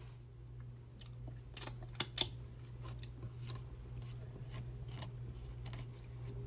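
Close-miked eating of a seafood boil: three sharp snaps come close together about two seconds in. Soft, wet chewing with small clicks follows.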